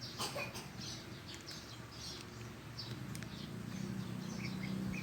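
Small birds chirping over and over in short, high, falling notes, with a few faint clicks. A low hum builds in the background from about three and a half seconds in.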